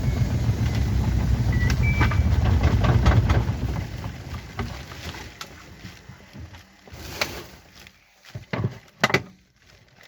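Washing machine running with a loud, steady low rumble that dies away about three and a half seconds in, followed by scattered clicks and knocks.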